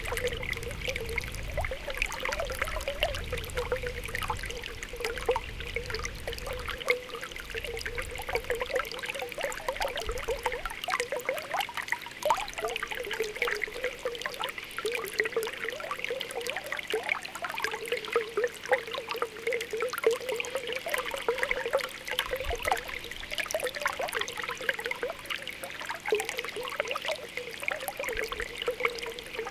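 Spring water welling up from the ground, bubbling with a steady stream of small pops and gurgles.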